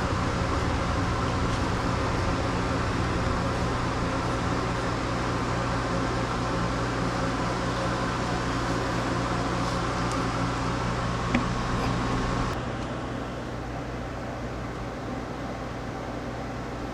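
Steady machine hum with several fixed tones, with a single click about eleven seconds in; a little past twelve seconds it drops in level and its higher part cuts off.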